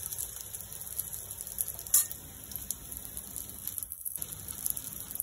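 Quinoa cutlets shallow-frying in a little mustard oil in a non-stick pan: a steady sizzle with fine crackling. One sharp tap about two seconds in, and a brief dropout about four seconds in.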